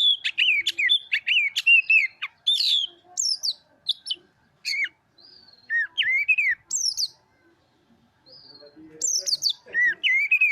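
Oriental magpie-robin singing: quick, loud runs of whistled, warbling notes that bend up and down in pitch, in phrases broken by short pauses, with a longer gap a little past the middle.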